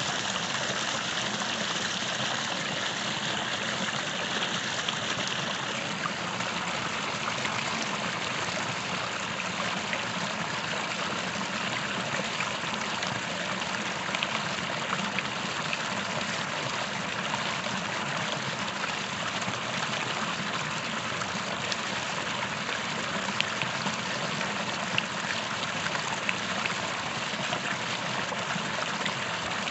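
Small creek running, a steady rush of flowing water with a few faint ticks of splashing.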